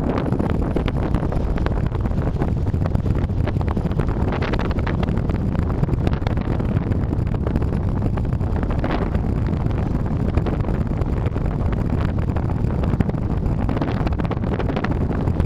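Steady low rumble of wind on the microphone mixed with vehicle running noise, recorded by a drive recorder while travelling on a wet road in the rain.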